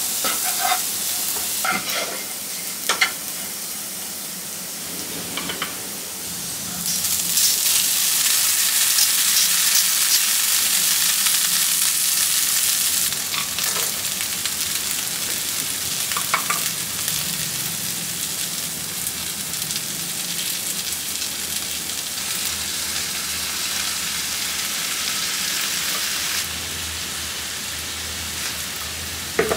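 Diced vegetables sizzling in a non-stick frying pan, stirred and scraped with a wooden spatula, with a few knocks of the spatula in the first seconds. About seven seconds in the sizzle gets louder and stays that way as more food goes into the hot pan.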